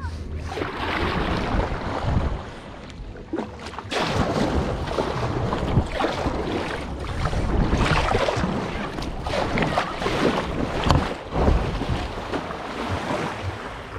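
Kayak paddle strokes splashing and water washing along the hull, in repeated swells, with wind buffeting the microphone.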